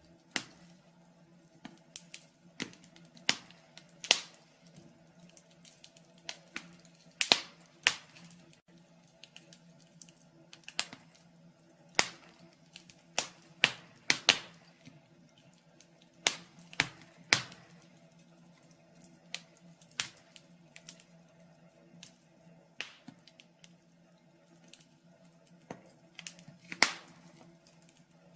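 Wood fire crackling in a fireplace: irregular sharp pops and snaps, about one or two a second and uneven in loudness, over a faint steady hum.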